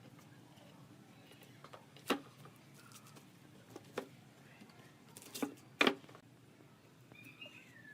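A few separate sharp knocks, irregularly spaced, the last two close together, over a faint steady hum, typical of wooden pieces being tapped or set down during pallet woodworking.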